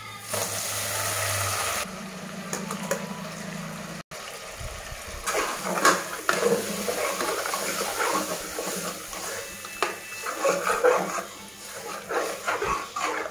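Raw goat intestine pieces sliding into hot oil in an aluminium pressure cooker and sizzling, then a steel ladle stirring them, scraping and knocking against the pot over continued sizzling.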